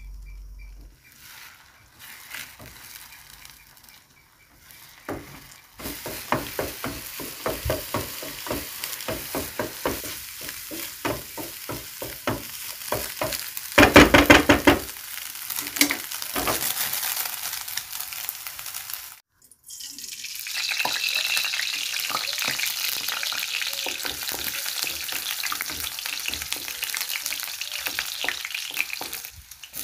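Eggs being scrambled with a wooden spatula in a nonstick frying pan: rapid scraping and tapping strokes over a soft sizzle, with a loud clatter about halfway through. After a sudden cut, chopped garlic sizzles steadily in hot oil in a metal wok while it is stirred with a wooden spatula.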